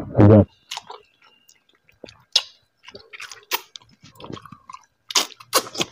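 A person chewing food with the mouth open, making a string of irregular wet smacks and clicks. The chewer says he has no teeth and cannot chew properly.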